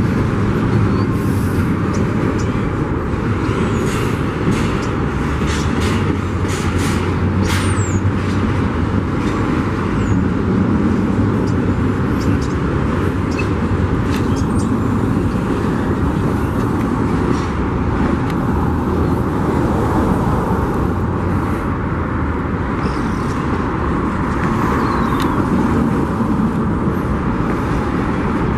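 Union Pacific freight train rolling past, a steady rumble of wheels on rail, with a few brief high squeals and clanks in the first several seconds.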